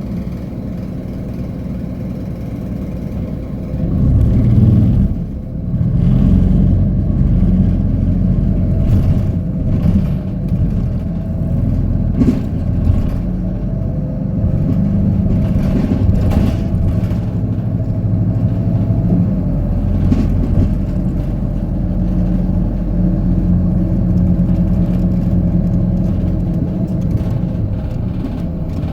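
Hino Poncho small bus's diesel engine heard from inside the cabin while driving, rising at about four seconds and again around six seconds, then running steadily, with occasional brief rattles and knocks.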